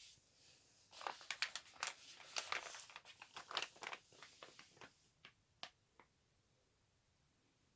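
Packaging crinkling as it is handled, a dense run of crackles from about a second in that thins out and stops around six seconds in.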